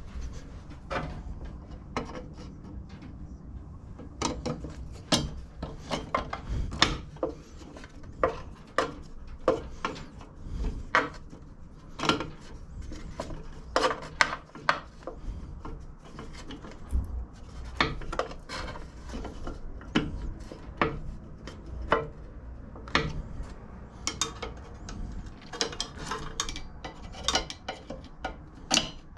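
Irregular clinks, knocks and rubbing of hand tools and metal parts being handled during repair work on a lawnmower's front height adjuster.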